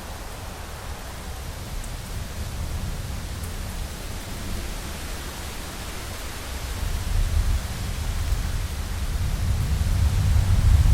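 Heavy rain falling on a window, a steady even hiss, with a low rumble of thunder building through the second half and loudest at the end.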